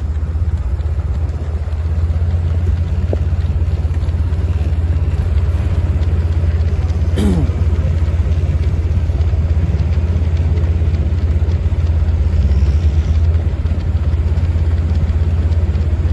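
Steady low rumble of a vehicle running at slow speed, heard from on board, with a short falling tone about seven seconds in.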